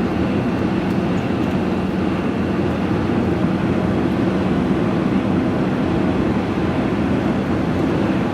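Steady engine and tyre noise heard from inside the cab of a diesel vehicle driving at road speed.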